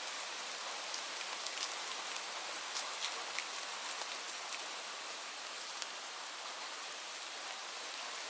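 Steady rain falling on leaves: an even hiss with distinct drops ticking through it, a little more often in the first half.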